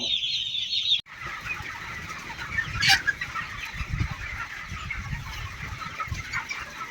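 A flock of chickens clucking and calling in a poultry shed. A dense, high chorus of calls cuts off abruptly about a second in, then scattered clucks follow, with one louder call about three seconds in.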